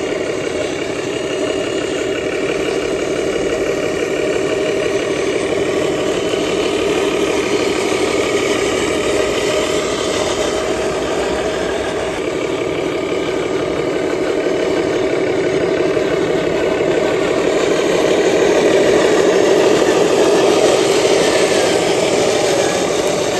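Truck engine running steadily with a fast, even chugging pulse, growing a little louder for a few seconds toward the end.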